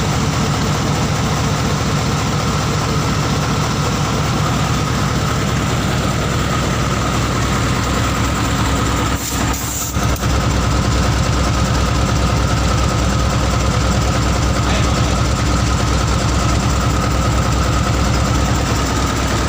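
Hino V8 diesel truck engine idling steadily after being started, with a brief dip in level about halfway through.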